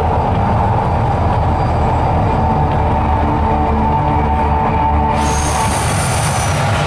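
Volcano show soundtrack played loud, music over a heavy low rumble. A sudden hiss joins about five seconds in and stops near the end.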